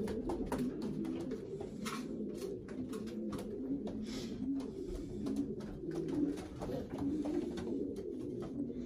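Many racing pigeons cooing together in a loft, a continuous overlapping chorus of low coos, with scattered clicks and scuffling of birds moving about.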